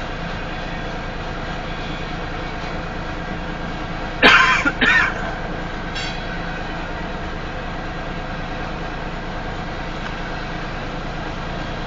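Union Pacific grain train's hopper cars rolling slowly past, a steady rumble of wheels on rail. About four seconds in, two short loud bursts close to the microphone, like a cough, briefly cover it.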